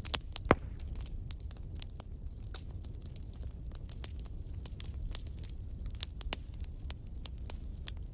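Wood fire crackling: irregular sharp pops and snaps over a steady low rumble of the flames, with one loud pop about half a second in.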